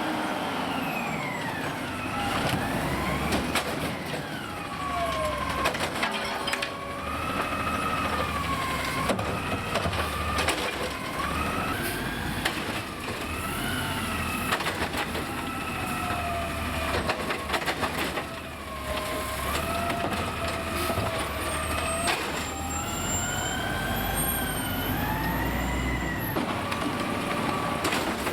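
Autocar refuse truck engine revving up and down in repeated glides to power the New Way side loader's hydraulic arm. Sharp bangs and clatters come in clusters as the arm slams and shakes plastic recycling carts over the hopper to get the material to fall out.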